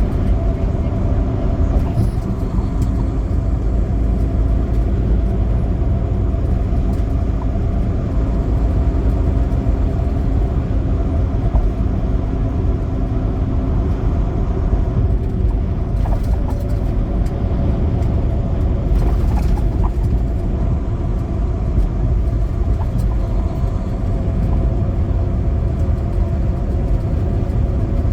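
Semi truck driving: its diesel engine drones steadily under a heavy, even rumble of road noise, with a few faint clicks.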